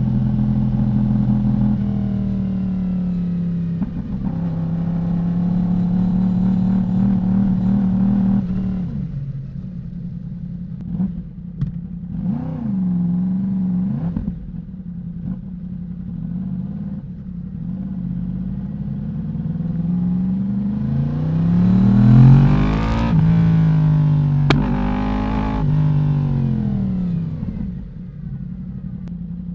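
Yamaha YZF-R1 inline-four engine through an Akrapovic exhaust, ridden: it holds steady revs, gives a short rev blip, then accelerates hard with the revs climbing, dropping back twice at gear shifts, and easing off near the end.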